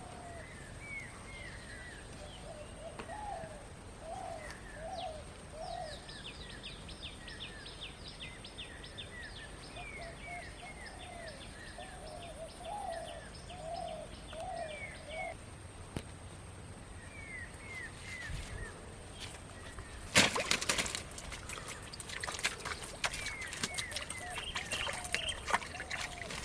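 Birds calling repeatedly with short arched notes and higher chirps, joined by a fast dry rattling call for several seconds early in the middle. About twenty seconds in there is a sudden loud noisy burst, followed by a run of clicks and rustles.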